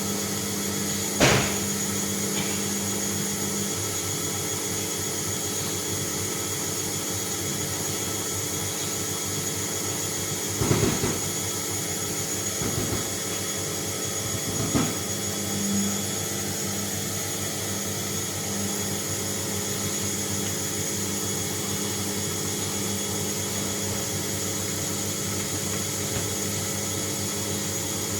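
Bauknecht WAS 1400 washing machine running: a steady motor hum with a few sharp knocks, one about a second in and others about ten and fifteen seconds in.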